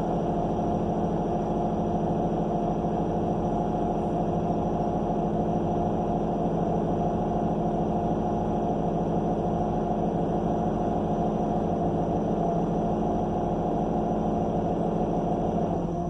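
Cummins Westport ISL G natural-gas inline-six of a transit bus running steadily at an even engine speed, heard from inside the passenger cabin.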